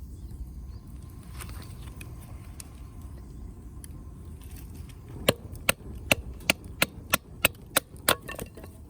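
Firewood being struck repeatedly, about ten sharp knocks in a steady rhythm of roughly three a second, starting a little past halfway.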